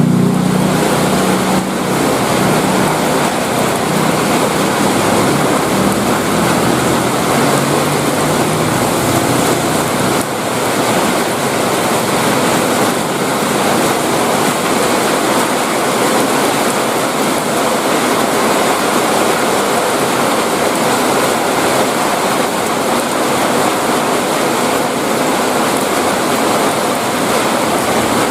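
Heavy rain pouring steadily, an even loud hiss. A passing vehicle's engine hum fades away over the first several seconds.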